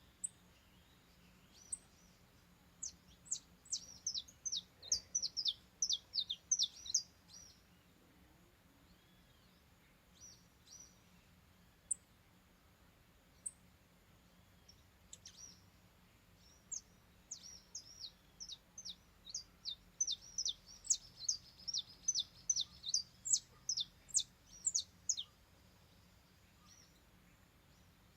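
Saffron finch (canário-da-terra) singing: two bouts of rapid, high chirping notes, a short one a few seconds in and a longer one in the second half.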